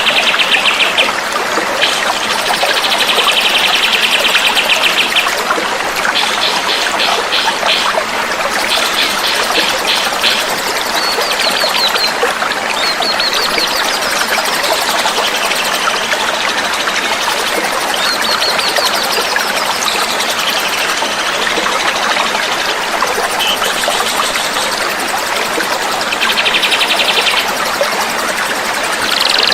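Small songbirds singing over steadily running, trickling water: phrase after phrase of fast, rattling trills and wavering whistles, the dense rough song used as masteran for training cage birds.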